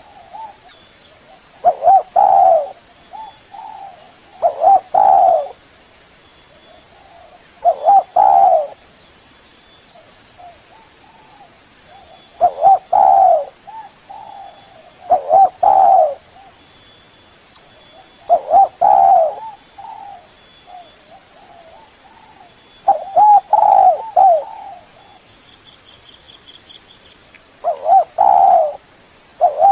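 Spotted dove (tekukur) cooing: phrases of several short, low coos, repeated about every three seconds with pauses between. It is a dove's calling song, used as a lure to draw in rival doves.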